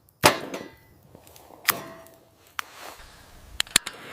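Three sharp strikes about a second apart, followed by two quick clicks near the end.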